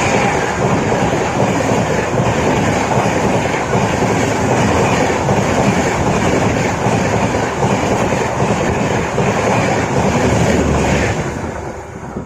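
Passenger express train running at speed, heard from on board: a loud, steady rumble and clatter of wheels on the track, which falls away sharply near the end.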